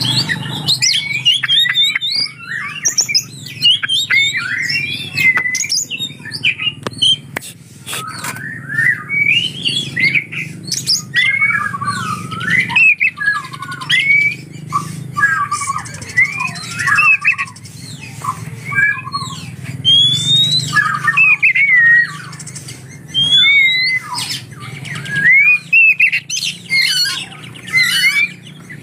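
Oriental magpie-robin (kacer) singing a fast, unbroken, varied song of sliding whistled phrases and sharp chattering notes, laced with mimicked lovebird calls. A steady low hum lies underneath.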